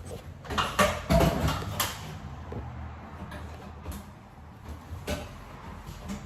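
Knocks, clatter and scraping of hand work with tools and sheet-metal duct parts. Most of it comes in a burst over the first two seconds, with a couple more knocks about four and five seconds in.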